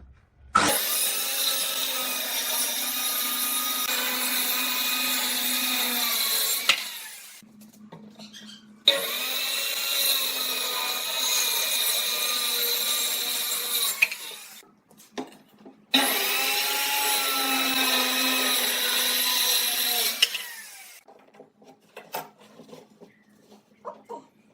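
An electric power tool working wood, run three times for about five or six seconds each, its motor pitch wavering under the cut and winding down after each run.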